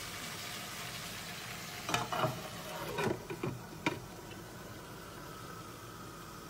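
Green tomatoes and chillies frying in a metal wok, a steady sizzle. Between about two and four seconds in, a glass lid clinks and knocks against the pan's rim several times as it is set on. After that the sizzle goes on more quietly.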